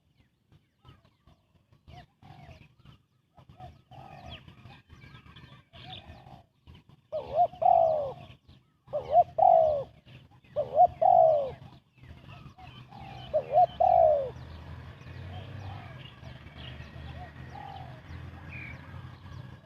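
Spotted dove cooing: soft, scattered coos at first, then louder phrases of paired rising-and-falling coos from about a third of the way in, with a low steady hum underneath.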